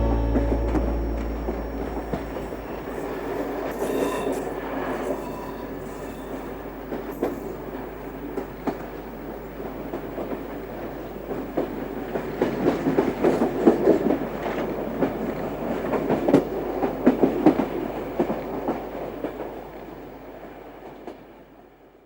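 A train running along the track, with many irregular clicks and rattles; it swells in the middle and fades out near the end. The song's last note dies away at the start.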